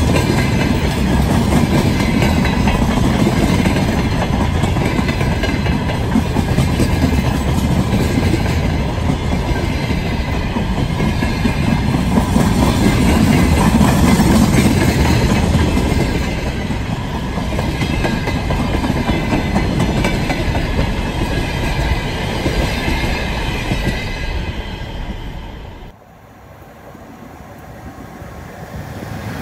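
Loaded container flat wagons of a long freight train rolling past at speed: a steady, dense rumble of wheels on the rails. About three and a half seconds before the end the sound drops suddenly, and a quieter rumble then slowly builds.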